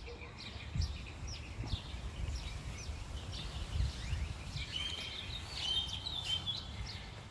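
Songbirds chirping and singing: many short quick calls, with a few longer held whistled notes late on, over a low steady rumble.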